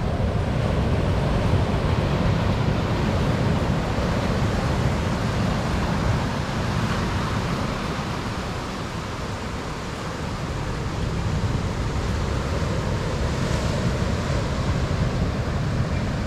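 Ocean surf, with wind rumbling on the microphone. The noise is steady and eases slightly about halfway through.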